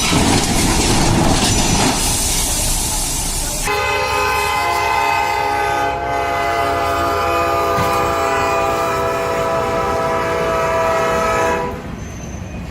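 Loud noise of a train running over the rails. About four seconds in, a train horn sounds one long steady chord for about eight seconds, then cuts off.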